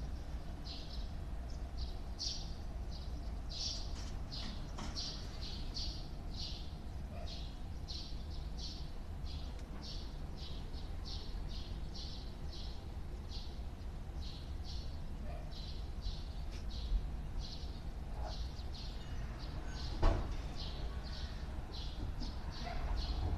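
A bird chirping over and over, short high chirps about two to three a second, over a steady low hum. There is a single sharp knock about twenty seconds in.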